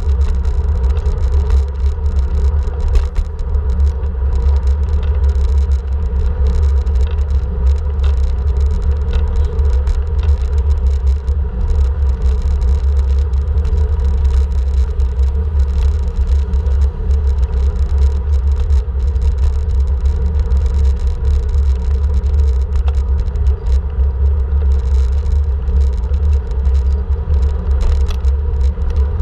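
Steady, loud rumble of riding a bike on the road, with wind buffeting the microphone and unbroken road and vehicle noise.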